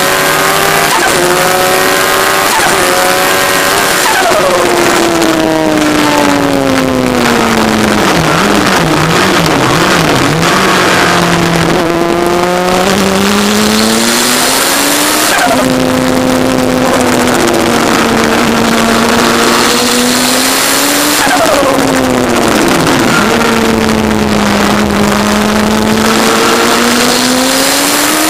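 Turbocharged Kawasaki ZX-10R inline-four in an MK Indy kit car, heard onboard under hard driving. The engine note falls away steeply about a sixth of the way in and wavers low for a couple of seconds, climbs and holds high, dips again about three quarters of the way through, then rises toward the end, over steady wind and road rush.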